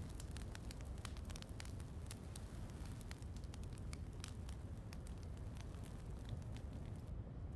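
Wood fire crackling: many small, sharp pops scattered irregularly over a steady low rumble and a soft hiss of rain. The crackles and hiss thin out briefly near the end.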